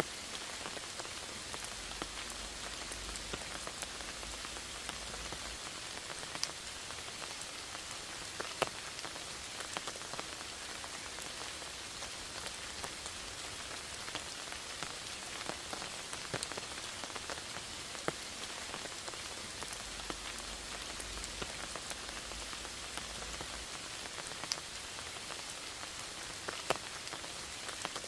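Steady rain falling in a forest, an even patter with individual drops striking sharply now and then.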